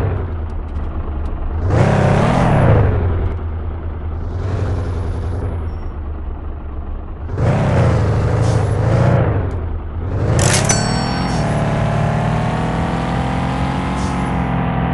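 Fiat Doblo van's engine running under way, its pitch rising and falling several times as it accelerates and drops off, then holding fairly steady over the last few seconds.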